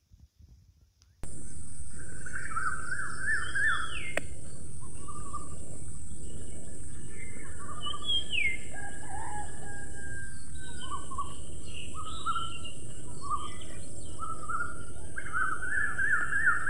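Birds singing outdoors over a steady background noise that starts about a second in: repeated short trilled phrases and a couple of downward-sliding whistles, with a steady high hiss above them.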